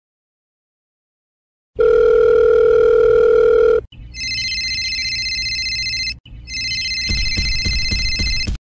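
Telephone sounds: a steady dial tone for about two seconds, then two long electronic rings with a short break between them, the second with a run of clicks over its end.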